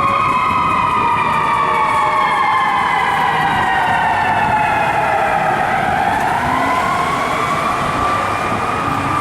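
Fire apparatus siren in a slow wail, its pitch falling steadily for about six seconds and then rising again near the end, over the rumble of the trucks on the road.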